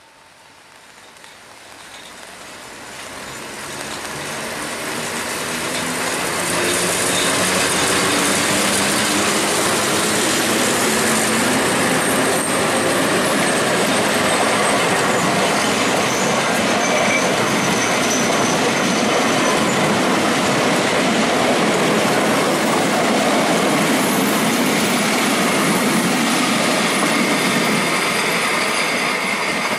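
A historic passenger train, hauled by two vintage electric locomotives, passing close by. Its rumble builds over the first six seconds or so, then stays loud and steady as the locomotives and old coaches roll past on a curve, with faint high wheel squeal.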